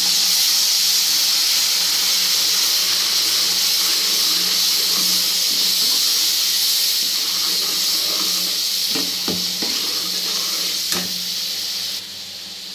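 Tomato paste and onion-spice masala sizzling in hot oil in a kadai while being stirred with a steel ladle: a steady loud hiss, with a couple of knocks near the end, easing off about twelve seconds in.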